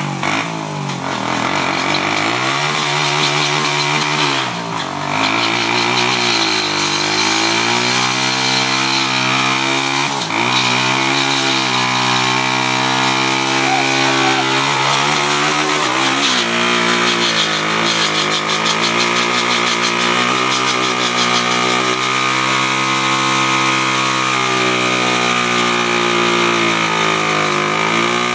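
Honda CT110 postie bike's small single-cylinder four-stroke engine held at high revs through a long burnout on a knobby rear tyre. The engine stays loud and high-pitched throughout, sagging and climbing back several times as the throttle is eased and reopened.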